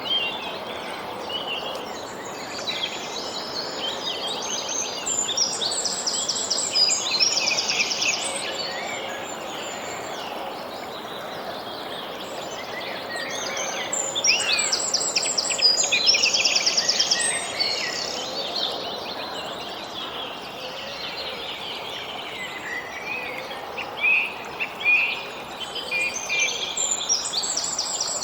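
Songbirds singing in bursts of fast trills and chirps, the loudest phrases coming in three spells, over a steady background hiss of outdoor ambience.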